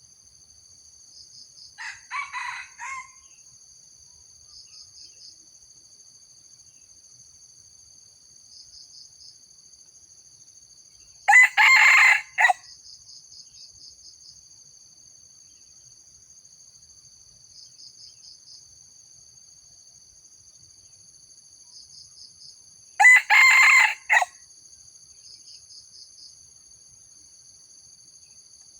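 Junglefowl rooster crowing three times, each crow short and clipped, the first fainter and the other two loud. Crickets trill steadily behind the crows, with pulsed chirps every few seconds.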